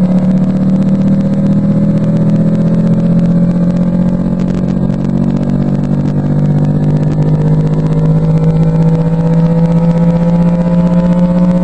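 Philips 4.2 subwoofers playing free-air at high power, reproducing a loud bass test tone whose pitch glides slowly upward, with crackling and buzz on top.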